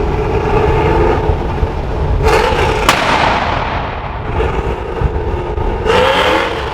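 1998 Mustang GT's cammed 4.6-litre V8 running loud and choppy through its exhaust. It gives two sharp cracks between two and three seconds in, and a rev rises near the end.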